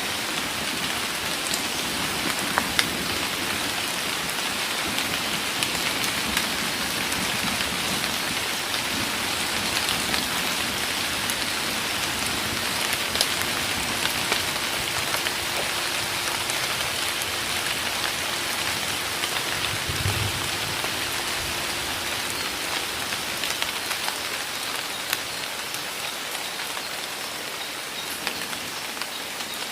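Heavy rain pouring down steadily in a forest, with many individual drops pattering. About twenty seconds in, a faint low rumble rises briefly under the rain.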